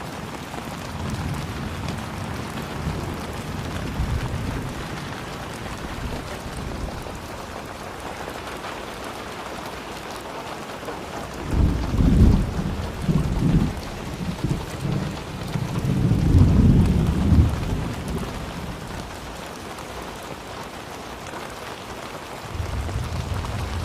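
Steady rain falling, with rolls of thunder: a long low rumble about halfway through, another a few seconds later, and a fainter one starting near the end.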